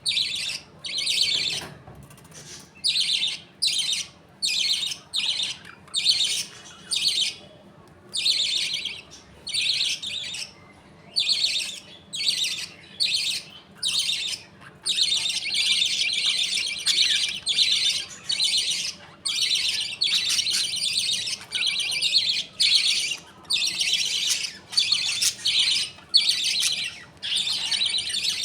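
Budgerigars chattering and chirping in a colony, in dense runs of short calls, with a break about eight seconds in.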